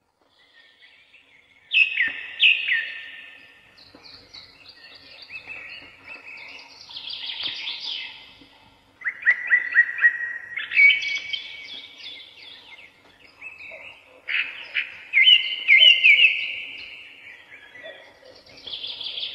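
Birds singing: repeated phrases of quick high chirps and trills, coming in several bursts with short pauses between.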